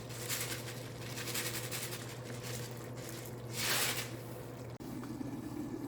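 Kitchen cooking sounds: a steady low hum with a faint bubbling haze from a pot of stew simmering on the stove, and one short noisy rustle about three and a half seconds in.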